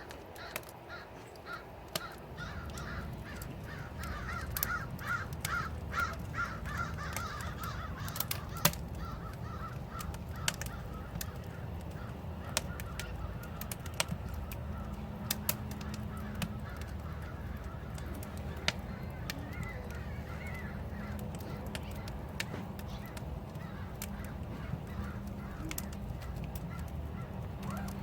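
Crows cawing in a quick run of calls, busiest in the first eight or nine seconds and fainter again about twenty seconds in, over a fire pit's wood crackling and popping with sharp cracks throughout and a steady low rumble.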